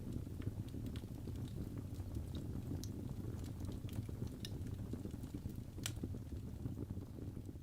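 Birch logs burning in a fireplace: a steady low rumble of the flames with scattered sharp crackles and pops, one louder pop about six seconds in.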